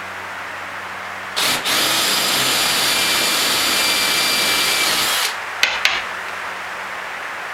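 Power drill boring into dense hardwood: a short burst about a second and a half in, then a steady run of about three and a half seconds, and two quick blips of the trigger near the end.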